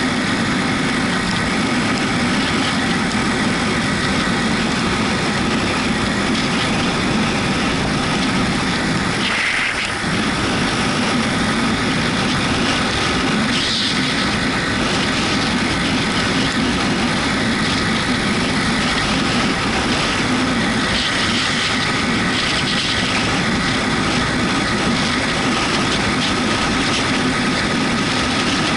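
Yamaha MT-125's single-cylinder 125 cc engine running steadily under way on a wet road, mixed with constant wind and road noise, with a brief dip in level about ten seconds in.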